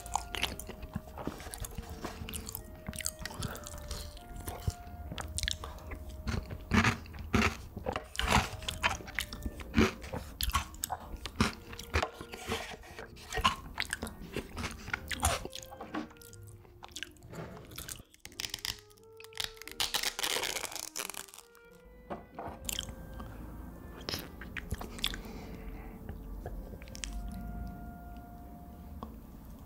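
Close-miked mukbang eating sounds: repeated biting and chewing with crisp mouth clicks, and a longer noisy rush about twenty seconds in. Soft background music of single held notes plays underneath.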